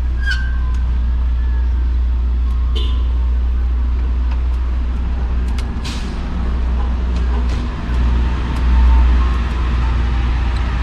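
Street traffic heard while riding an e-bike: a steady low rumble of passing vehicles, with a thin high squeal in the first couple of seconds, a few short clicks, and the rumble swelling briefly near the end.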